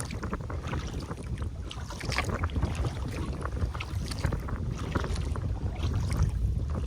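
Water splashing and trickling around a kayak on a moving river, with a steady low rumble of wind on the microphone.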